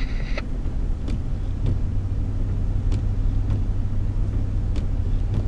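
Steady low drone of a car driving on a snowy road, heard from inside the car. A scanner radio transmission cuts off just after the start, and a few faint ticks come now and then.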